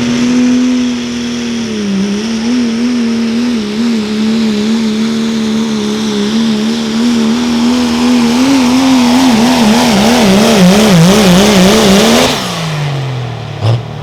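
Diesel pickup truck's engine held at high revs under load during a sled pull, its note wavering up and down more and more strongly. About twelve seconds in the throttle is let off and the engine winds down, with a short sharp bang near the end.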